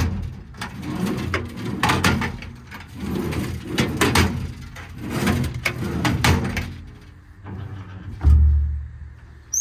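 Service-body compartment drawers being slid open and shut: repeated sliding rattles and clicks, then one heavy low thump near the end.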